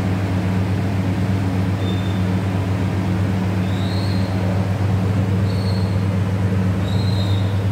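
A steady mechanical hum, like an electric motor or fan running, holds an even level throughout. A few faint, short, high chirps come over it now and then.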